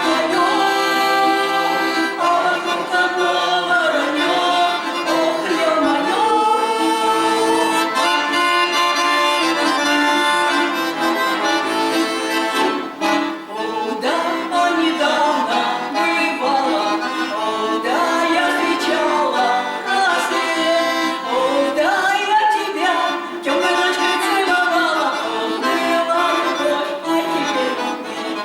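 Accordion playing a folk-style melody, continuous music with chords beneath the tune.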